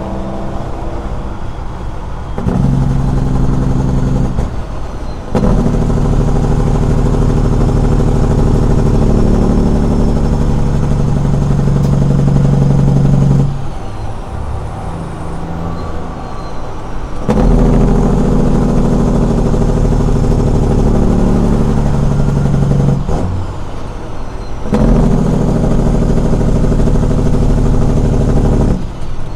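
Straight-piped Caterpillar 6NZ inline-six diesel in a truck, running loud through its open exhaust in four long stretches, each followed by a brief quieter drop-off.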